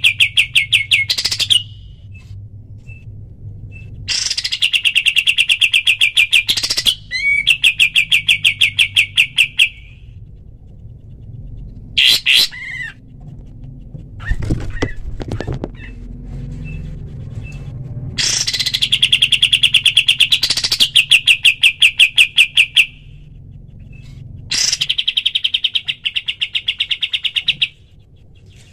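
Kapas tembak bird giving its rapid 'shooting' call: fast trills of evenly repeated high chirps, about six bursts in all, each from under a second to several seconds long, with short pauses between them.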